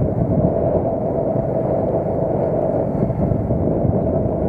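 Vehicle engine running steadily while riding, with wind noise on the microphone.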